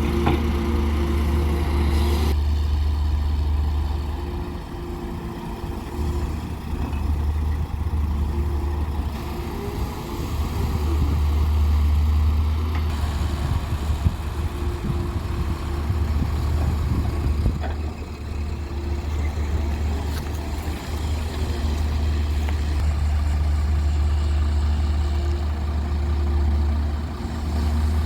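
Heavy diesel earthmoving machinery running with a steady low drone that dips briefly a few times as the load changes, with one short sharp knock about halfway through.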